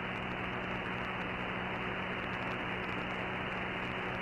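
Steady hiss of static from a CB radio receiver with no station on the frequency, the band noise heard through an open squelch, with a faint steady hum beneath it.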